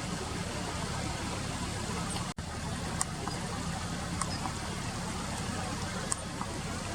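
Steady rush of river water mixed with distant traffic noise, with a few faint short ticks; the sound cuts out for an instant a little over two seconds in.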